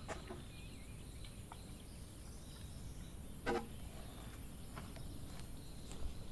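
Outdoor ambience: a low steady rumble under a faint high insect hum, with a few scattered small clicks and one louder knock about three and a half seconds in.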